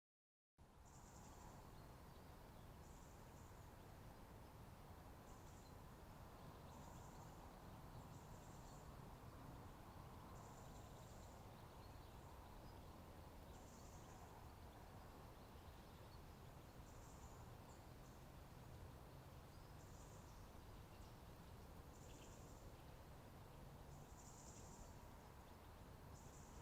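Faint outdoor ambience: a steady low hiss with short, high chirps from small creatures every second or two, starting out of dead silence about half a second in.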